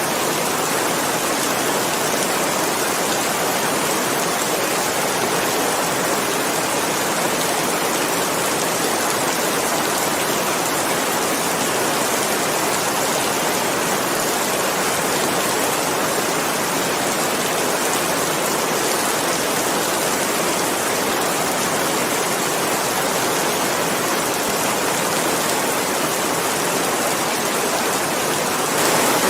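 Rain falling steadily, an even hiss with no separate drops standing out, growing slightly louder at the very end.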